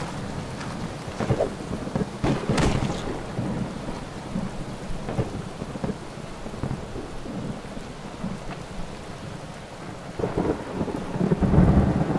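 Steady heavy rain with rolling thunder, a louder rumble of thunder building near the end.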